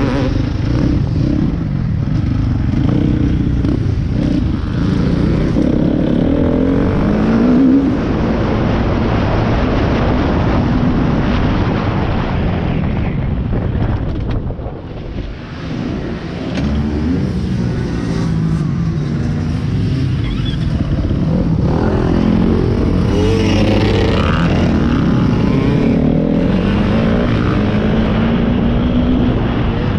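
Motocross bike engine revving up and down as it is ridden round a track, with wind noise. The throttle drops off briefly about 14 seconds in, then the engine picks up again.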